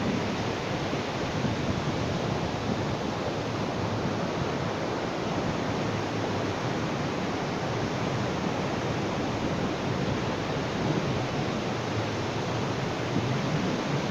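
Sea waves washing onto a beach, heard as a steady rushing surf with no single crash standing out.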